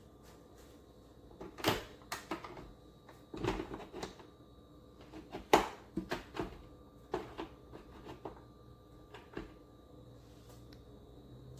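A string of irregular knocks and clicks, about a dozen spread over several seconds, the loudest about halfway through: hard objects being handled and set down.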